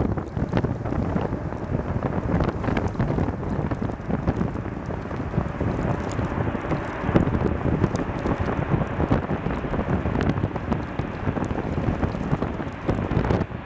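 Strong wind buffeting the microphone: a loud, steady, dense rushing noise, full of small crackles and pops.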